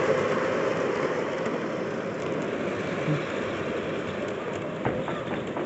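Model train rolling along the layout track, a steady rolling noise of wheels on rail that eases off slightly, with a few light clicks near the end.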